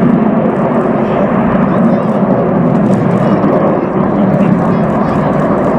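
An aircraft flying in the display overhead: steady, loud engine noise with no rise or fall.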